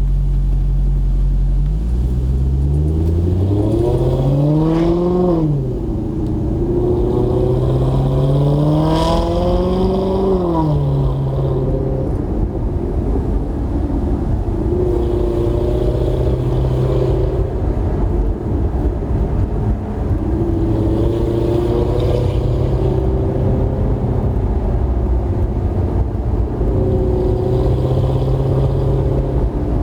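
Maserati GranTurismo 4.2-litre V8 through a Kreissieg aftermarket exhaust, revved up and let fall twice, then running at steadier revs with a few gentle rises.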